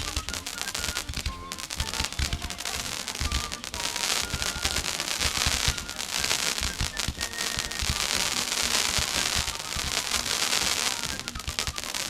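Fireworks going off in rapid succession: a dense crackling with many pops and bangs, thickening from about four seconds in.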